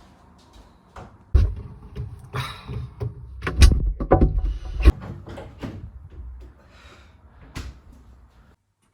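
A series of knocks and clatters, like a door or cupboard being opened and shut and things being handled, over a low rumble. The loudest knocks come around the middle, with one more near the end.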